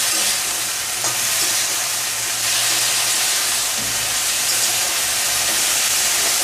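Cauliflower florets, still wet from a vinegar and salt-water soak, sizzling steadily in hot oil in a steel kadai on high heat. They are being stirred with a metal spatula, with a few faint scrapes against the pan.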